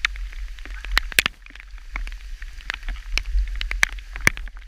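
Hailstones striking nearby surfaces, as a quick irregular patter of sharp clicks over a low steady rumble.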